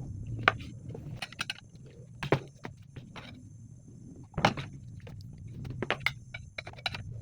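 Irregular clicks and knocks of hand work on metal parts and tools, with three sharper knocks about half a second, two seconds and four and a half seconds in, over a low steady rumble.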